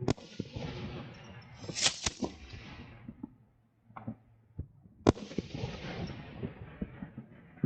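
Aerial fireworks going off: a sharp report at the start, a close pair about two seconds in and another about five seconds in, each trailing off in a long echoing rumble, with a few smaller pops between.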